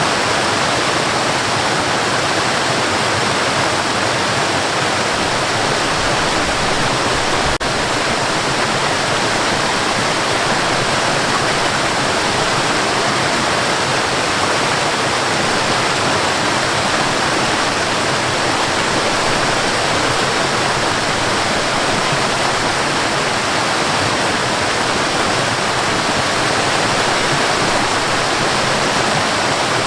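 Waterfall, water pouring and rushing in a steady, unbroken roar of white noise.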